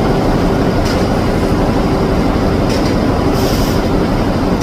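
Crane machinery running steadily during a load test: a loud, constant rumble with a steady hum. A few short high hisses come through about a second in and again near the three-second mark.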